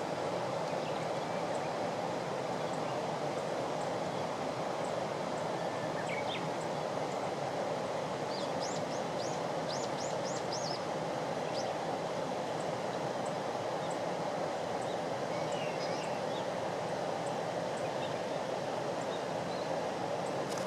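Steady rushing background noise. About nine seconds in, a small bird gives a short series of faint, quick high-pitched calls, with a few other faint calls scattered around it.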